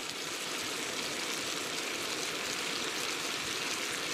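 Sliced boletes and lobster mushroom frying in a pan, sizzling steadily.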